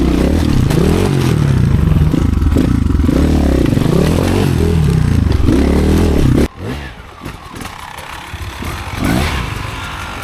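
Enduro motorcycle engine revving up and down under throttle on a slippery climb. The engine sound cuts off abruptly about six and a half seconds in, leaving quieter scraping and clatter.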